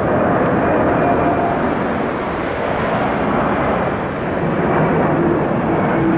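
Boeing 767 jet engines running, a steady loud rush with faint whining tones.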